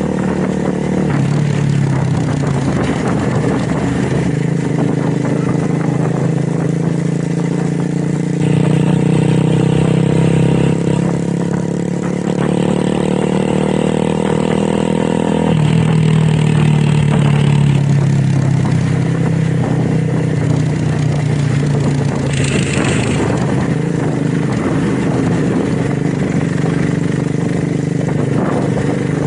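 Motorcycle engine and exhaust running under way, a steady loud drone whose pitch climbs slowly and then shifts suddenly, once about a second in and again about halfway through.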